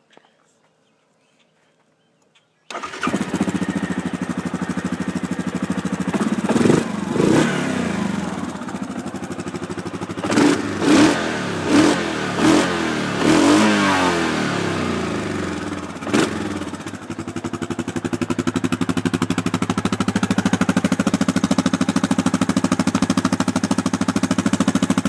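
2012 Yamaha Grizzly 700 ATV's single-cylinder engine through its stock exhaust: it starts suddenly about three seconds in, is blipped with several short revs, then settles into a steady idle.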